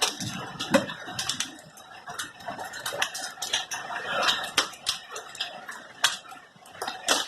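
Hailstones pelting and bouncing on hard surfaces: a dense, irregular clatter of sharp clicks and cracks over a steady hiss of falling hail and rain.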